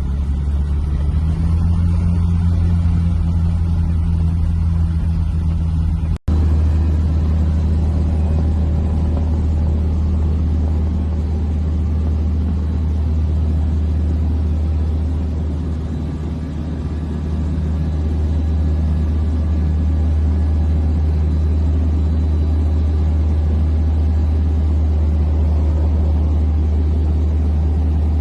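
Small airplane's piston engine and propeller running steadily with a loud low drone, heard from inside the cockpit. The sound cuts out for a split second about six seconds in.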